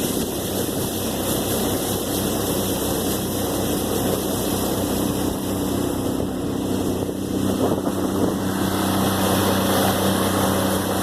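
Mercury 25 horsepower outboard motor running steadily under way, an even engine hum.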